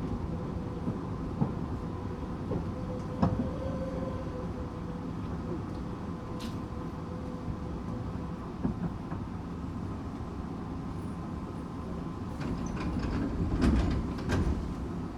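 Interior sound of a Tokyu 8500 series train car: a steady low rumble with faint steady tones, and scattered knocks and clicks that bunch up a little before the end.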